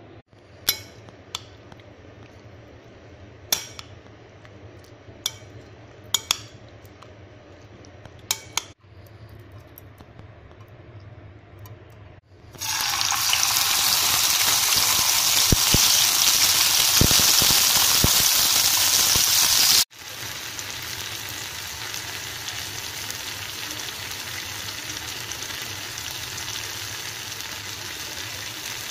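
Pieces of chicken breast with chopped onion and tomato frying in hot oil in a pan. The sizzle starts suddenly and loud about halfway through, then after a cut carries on as a quieter, steady sizzle. Before it there are a few sharp clicks, a second or two apart.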